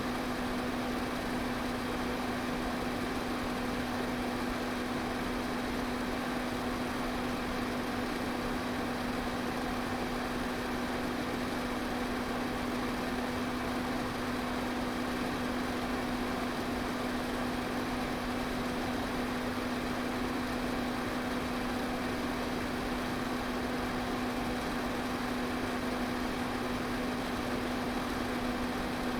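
Electric pedestal fan running steadily: an even rush of moving air over a constant low motor hum, with no change in speed.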